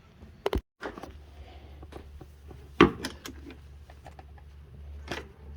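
Metal tools knocking and clanking against the kicker bracket while being set up to compress the gas shock: a few sharp knocks, the loudest about three seconds in and another near the end, over a steady low hum.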